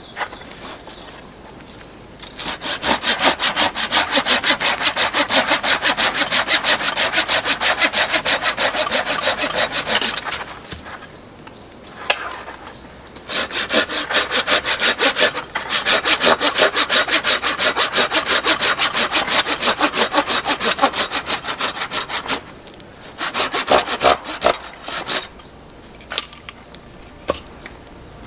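Hand saw cutting through wood in fast, even back-and-forth strokes: two long runs of sawing with a pause between them, then a few short strokes near the end.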